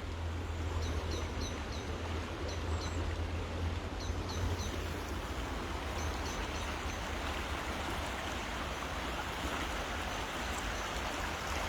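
Steady hiss of rain falling on a river, under a low steady rumble. A small bird gives short high chirps in quick runs of three or four, several times over the first seven seconds or so.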